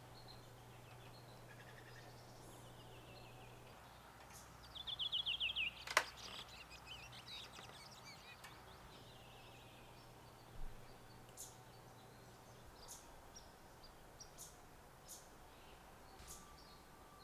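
Quiet outdoor morning ambience with a bird calling once about five seconds in, a rapid run of short high notes falling slightly in pitch. A sharp click follows just after, and faint high chips are scattered through the rest.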